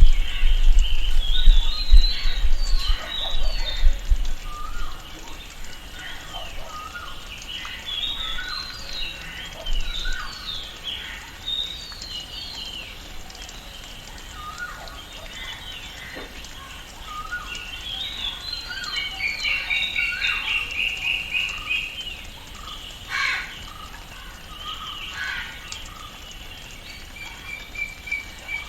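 Many birds of a tropical rainforest calling over each other in short chirps and whistled phrases. A fast trill of repeated notes runs for a few seconds past the middle, and a low rumble is loudest in the first few seconds.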